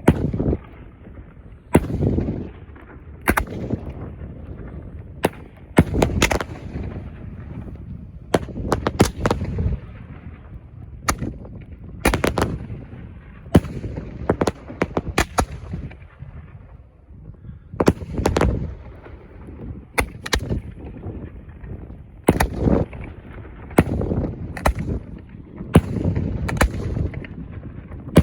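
Fireworks going off: a long run of sharp bangs and cracks at irregular intervals, some in quick clusters, over a low rumble that swells and fades between the reports.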